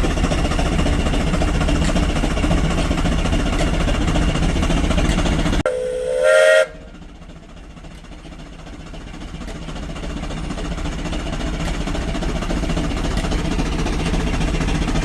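A steady low mechanical rumble, broken off abruptly by a short blast of a steam whistle, about a second long with its pitch lifting slightly at the end. A fainter low rumble follows and slowly grows louder.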